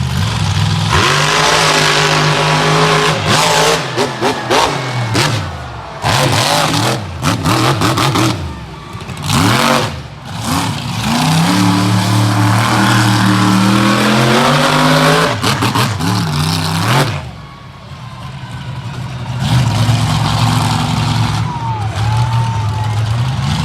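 Monster truck engine revving hard, its pitch climbing and falling again and again, with a few short drops in level between pulls.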